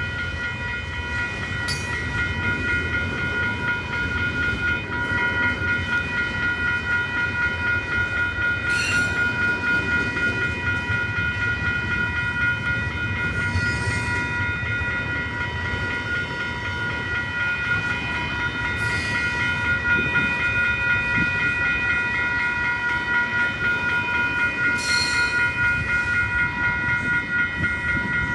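A train rolling steadily past, with a continuous low rumble of the cars and an occasional clank or hiss from the wheels. Steady high ringing tones sound over it throughout, typical of a grade-crossing warning bell while the train occupies the crossing.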